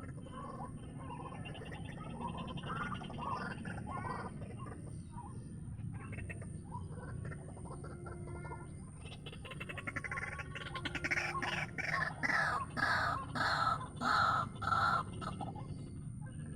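White-breasted waterhen (ruak-ruak) calls: scattered softer calling at first, then about ten seconds in a run of loud croaking calls repeated about twice a second for some five seconds.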